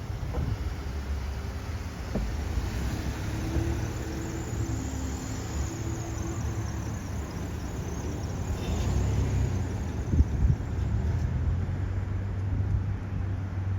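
Fire engine's engine running with a steady low rumble, with a brief sharp peak about ten seconds in.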